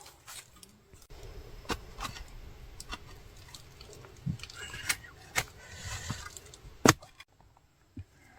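Scattered knocks, clicks and scrapes, with one sharp knock about seven seconds in.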